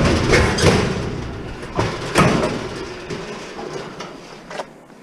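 Metal parts of a scrapped appliance scraping and clanking as a part is wrenched out: several loud scrapes and knocks that die down, with a last sharp knock near the end.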